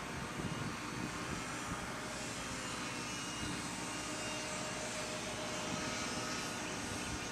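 Small electric motor and propeller of a 12-inch foam R/C flying wing in flight, a faint thin whine that drifts a little in pitch, heard over wind rumble on the microphone.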